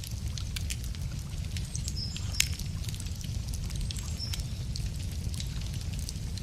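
Wood fire crackling with irregular sharp pops, the loudest about two and a half seconds in, over a steady low rumble. A few short, high bird chirps come in around two seconds and again around four seconds in.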